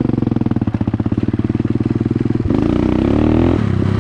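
2008 dirt bike engine running at low revs with an even chugging beat, then the throttle is opened about two and a half seconds in and the revs are held higher for about a second before easing back. The exhaust has little packing left in its silencer, which the rider says makes the bike really loud.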